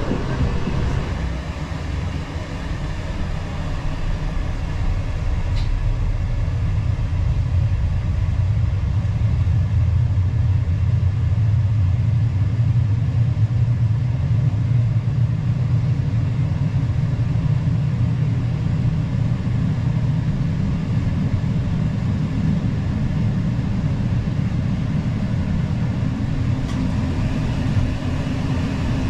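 Steady low rumble of a moving regional passenger train, swelling a little in the middle and easing again.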